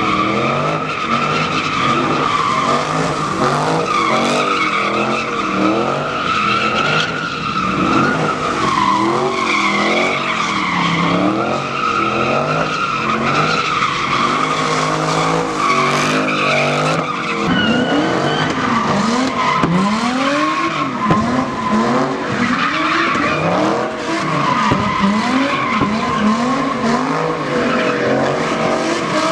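Tyres squealing steadily through a burnout, over an engine revving up and down again and again; past the middle the revs sweep up and fall back in quick repeated surges.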